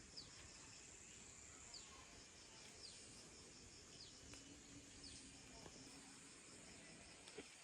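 Faint outdoor ambience of insects chirping steadily in a high, evenly pulsing chorus, with short high chirps falling in pitch about once a second.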